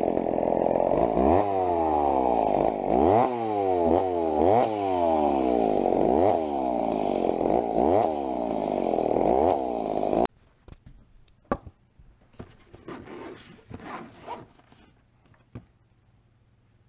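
Chainsaw engine running and revving repeatedly, its speed rising and falling about every second and a half. It cuts off abruptly about ten seconds in, leaving only faint clicks and knocks.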